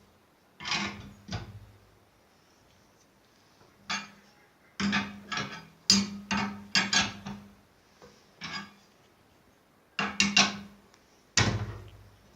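Irregular metal clinks and clanks from a homemade press being worked to push a table fan's shaft into its rotor, in short bursts with pauses between them.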